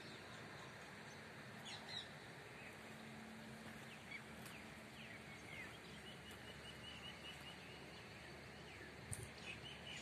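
Faint small-bird song over steady outdoor background noise: scattered chirps and short whistled glides, with a quick string of repeated notes, about five a second, starting about six seconds in.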